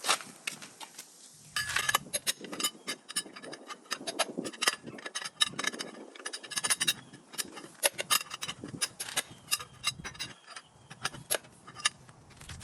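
Wrench loosening a car wheel's lug nuts: a long run of quick, irregular metal clicks and rattles, starting about a second and a half in.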